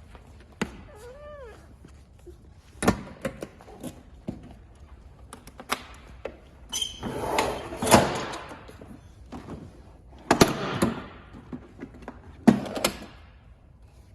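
Irregular knocks and thumps, with a few short scraping bursts and a brief squeak that rises and falls about a second in.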